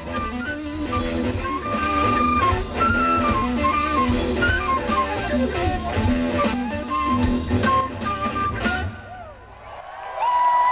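Live blues-rock band playing, with an electric guitar lead over drums and bass, stopping suddenly near the end. The crowd then starts to whoop and cheer.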